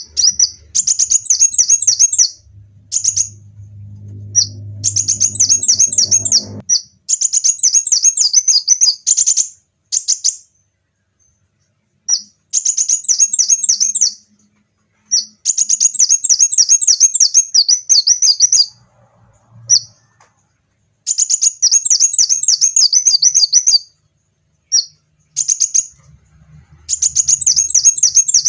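Kolibri wulung sunbird singing: repeated bursts of rapid, high-pitched chirping trills, each lasting one to three seconds, with short pauses and a few single chirps between them.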